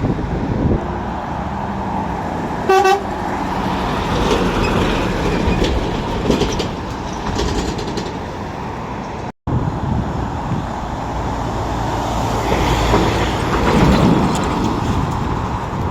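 A vehicle horn gives one short toot about three seconds in, over steady engine and traffic noise from passing vehicles.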